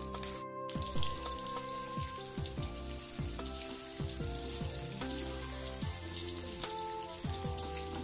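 Eggplant pieces frying in hot oil in a wok, sizzling steadily, under background music.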